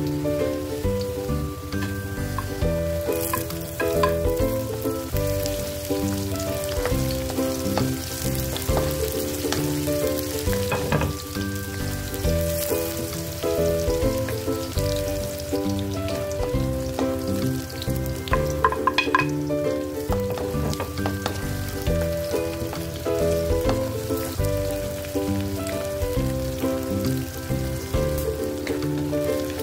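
Garlic, onion and chili sizzling in hot oil in a metal wok, stirred and scraped with a wooden spatula, under background music with a repeating rhythmic pattern.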